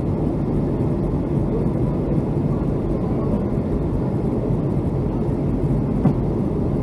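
Steady cabin noise inside a Boeing 757-200 on its descent to land: engine and airflow noise sitting mostly low in pitch, with one short knock about six seconds in.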